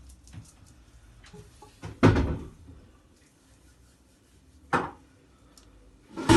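A few sudden household knocks, like a cupboard or door being shut: a loud one about two seconds in, a shorter one later, and another loud one at the end.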